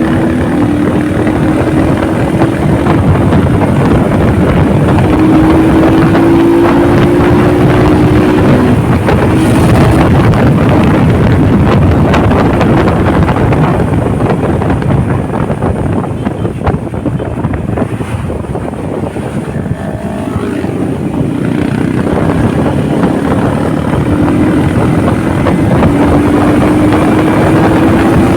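Motorcycle with a swapped-in Honda XLR engine running at road speed under heavy wind rush on the microphone. The engine note climbs slowly in the first several seconds, eases off and quietens for a few seconds past the middle, then picks up and climbs again near the end.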